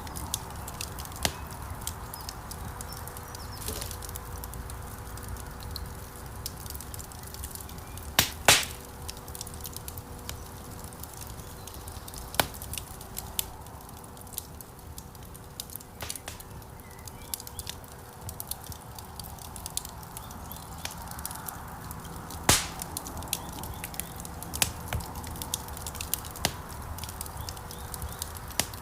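Wood fire burning in a stone fireplace: a steady low rumble and hiss of flames with frequent small crackles and a few loud sharp pops, the loudest two about eight and twenty-two seconds in.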